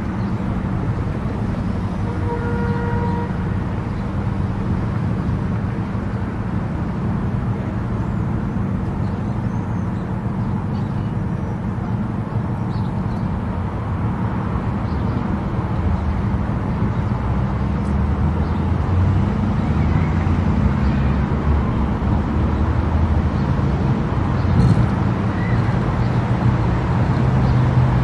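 Car driving at expressway speed: steady road and engine noise that grows a little louder partway through. A short electronic beep sounds about two seconds in.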